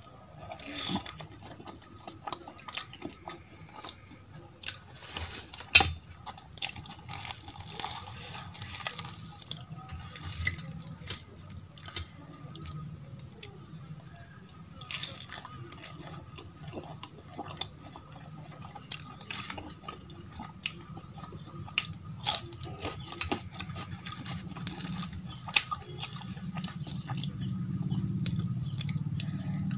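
Close-miked eating: biting and chewing deep-fried aloo kachori dipped in potato curry, with irregular crunches and wet mouth clicks.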